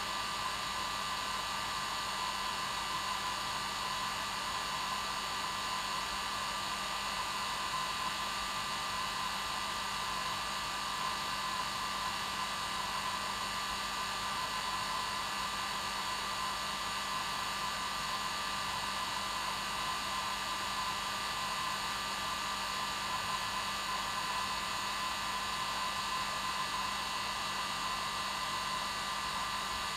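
Hair dryer running steadily: an even blowing hiss with a steady hum and whine.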